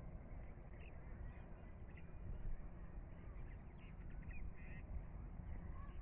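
Short harsh bird calls, several scattered through, over a steady low rumble.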